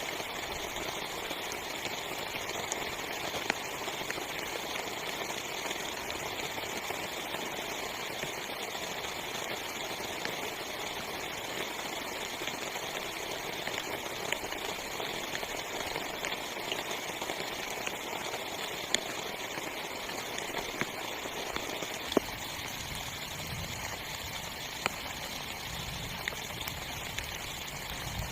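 Heavy rain falling steadily on a small tent's fabric, an even rushing patter with a few sharper single drop ticks.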